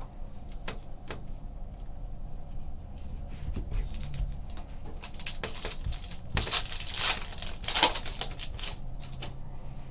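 Trading cards being handled and flipped through: light clicks and rustles of card against card, with a louder stretch of rustling about two-thirds of the way through.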